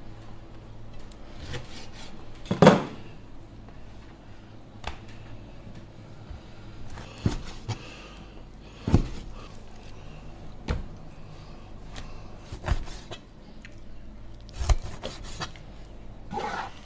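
Chinese cleaver chopping raw lamb into chunks on a plastic cutting board: single chops knocking one at a time, a second or two apart, with lighter taps between.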